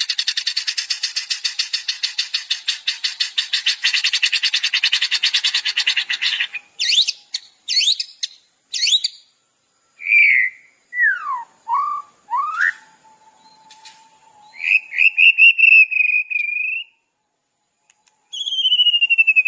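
Songbird song from a masteran training recording: a fast, harsh rattling trill for about six seconds, then quick rising chirps, whistled notes gliding down and up, a short warbling trill, and a long falling whistle starting near the end.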